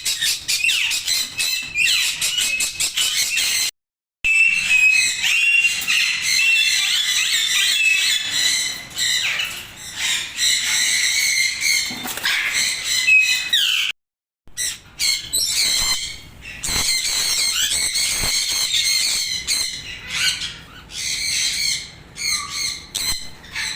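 A flock of parrots in an aviary, many birds chattering and squawking at once in a dense, shrill din. It breaks off twice briefly in silent gaps.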